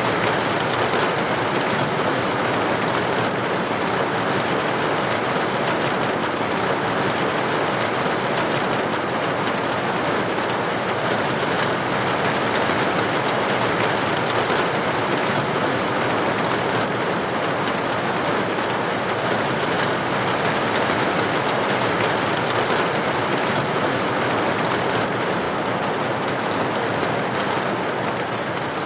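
Steady rain on a window, a dense even hiss of drops that does not let up.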